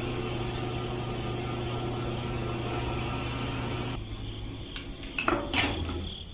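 A small motor running with a steady hum that weakens about four seconds in, followed by a few short clinks near the end.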